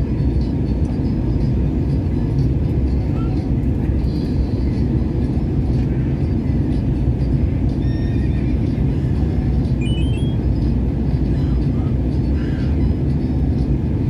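Airliner cabin noise: a steady, low rumble of engines and rushing air inside the passenger cabin. About ten seconds in, a short run of faint, rising high notes sounds over it.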